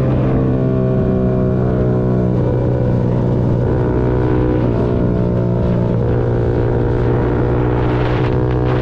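Yamaha MT-125's single-cylinder four-stroke engine running steadily while riding, with small shifts in pitch. Its note turns rougher briefly near the end.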